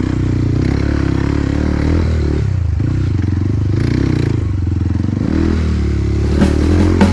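Trail motorcycle engine running under way, its pitch dropping off a little under halfway through and rising again as the rider opens the throttle. Drum beats come in near the end.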